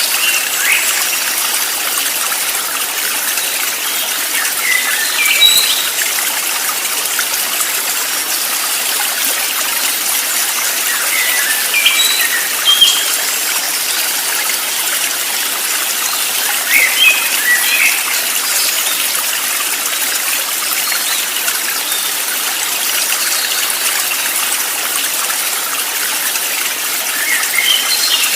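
A stream running steadily, with short bird chirps breaking in every few seconds.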